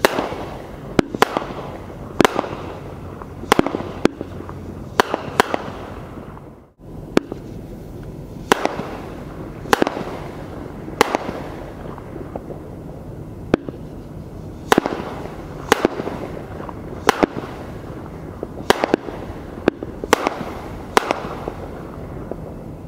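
Red Apple 'Fisherman' consumer fireworks going off: sharp cracks every second or so, some in quick pairs, over a steady crackling hiss. There is a brief break about seven seconds in, after which the cracks go on.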